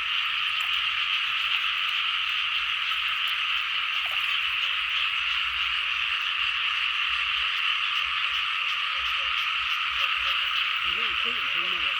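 Dense, unbroken night chorus of frogs calling together from wet rice fields after rain, a steady high-pitched wall of sound.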